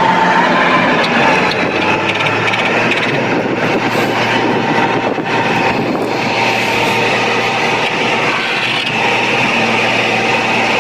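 Heavy vehicle engine running hard, a loud, steady mechanical noise with no break.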